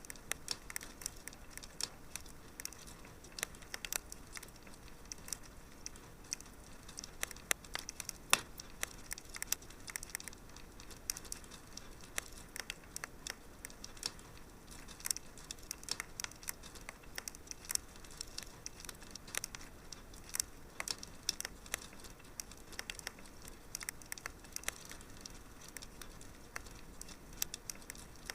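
Wood fire crackling in a fireplace: irregular sharp pops and snaps over a soft steady hiss, with a louder pop about eight seconds in.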